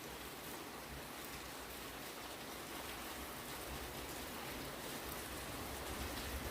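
Fairly heavy rain falling steadily, an even hiss of drops, with a low rumble building near the end.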